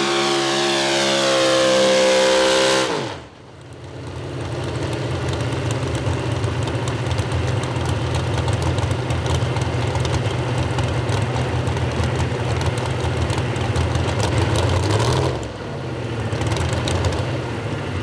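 Modified 4x4 pulling truck engine at high revs, its pitch climbing, then cut off about three seconds in and winding down quickly. After a short lull, an engine idles with a steady low rumble.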